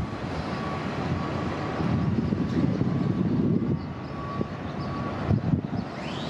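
City transit bus engines running, a low rumble that swells about two seconds in and eases off after three and a half.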